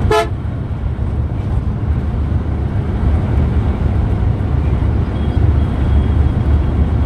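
Steady low rumble of a moving bus, engine and road noise together. A short pitched sound comes right at the start.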